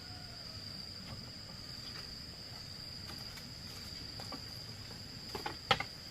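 An insect trilling steadily on one unbroken high tone. A few sharp knocks come near the end, the loudest about five and a half seconds in.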